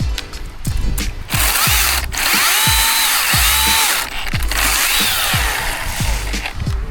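Chainsaw revving up, holding at full throttle and dropping back, in two bursts, the second shorter, over background music with a steady beat.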